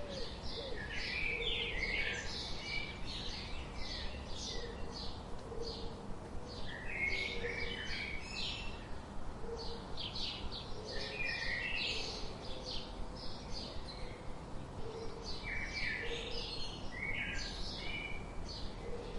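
Small birds chirping, many short high chirps a second in overlapping clusters.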